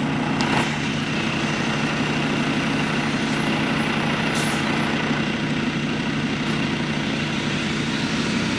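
Semi-truck's diesel engine idling steadily, heard from inside the cab, with a couple of brief light ticks about half a second and four and a half seconds in.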